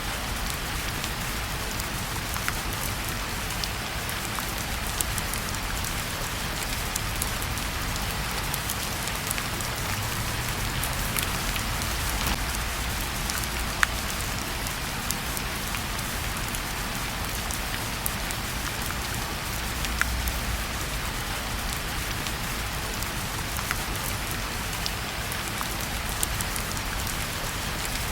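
Steady rain falling, an even hiss with a low rumble beneath it, broken by scattered sharp pops at irregular moments.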